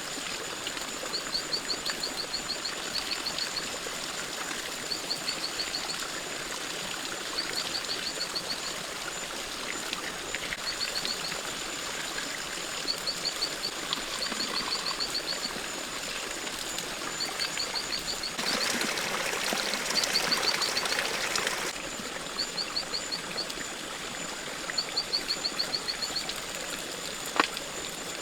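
Rainforest ambience: a steady high insect whine and short rapid trills of chirps repeating every second or two, over the rush of a stream. About two-thirds of the way through, a louder rush of water-like noise lasts about three seconds, and a single sharp click comes near the end.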